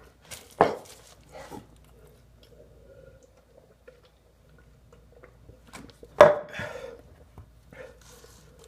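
Handling of food and tableware while eating, with two sharp knocks, one about half a second in and a louder one about six seconds in, and faint rustling between them.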